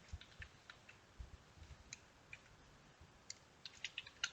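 Faint, scattered keystrokes on a computer keyboard, with a quicker run of taps near the end.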